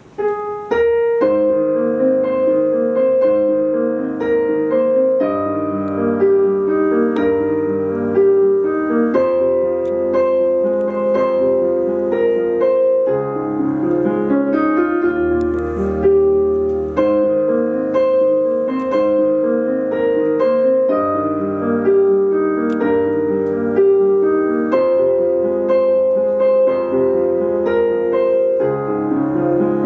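Piano playing a song's introduction live, starting suddenly: a repeating pattern of notes over low bass notes that change every few seconds.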